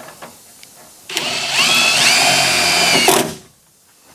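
Power drill running for about two seconds: a motor whine that steps up in pitch as the trigger is pulled harder, then stops.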